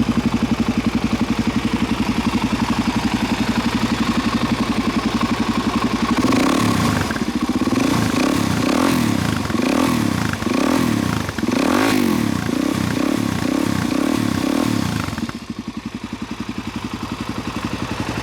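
Suzuki DR-Z400SM's single-cylinder four-stroke engine breathing through a Yoshimura full exhaust system. It idles steadily, is revved in a quick series of throttle blips, each rising and falling, for about nine seconds, then drops back to idle.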